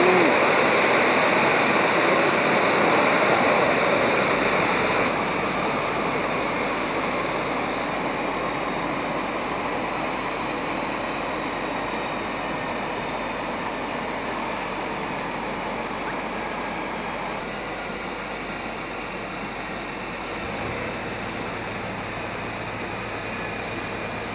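Jet airliner engines running with a steady rush and a high whine, slowly fading as the aircraft moves away.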